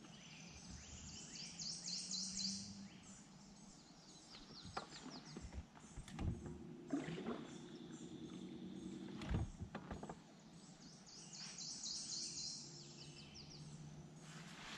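Birds chirping in a rapid run of high notes, about a second in and again near the end, over faint outdoor background noise. A few short, faint knocks fall in between.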